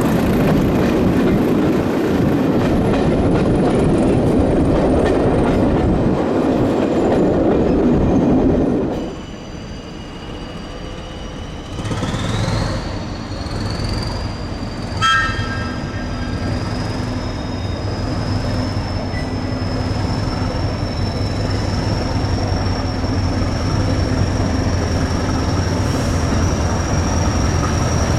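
A train passes close by, with loud rumbling wheels for about nine seconds before it drops away suddenly. Then a quieter steady hum with a high whine rising in pitch, and a short toot about fifteen seconds in.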